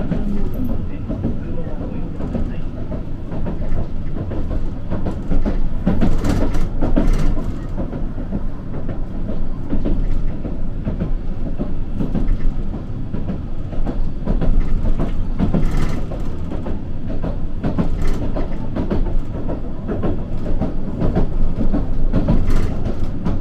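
Street tram running along its track, heard from inside the car: a steady low rumble of wheels and motor, with scattered clacks from the rails.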